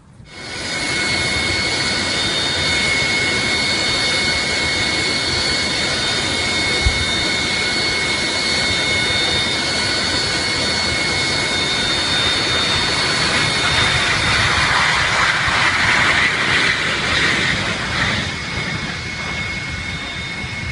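Jet aircraft engine running, a dense steady noise with a high constant whine over it, swelling a little about three-quarters of the way through.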